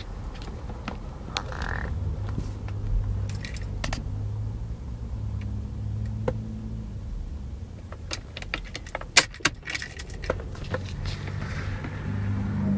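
Car keys jangling and clicking, with a cluster of sharper clicks near the end, over a low steady hum.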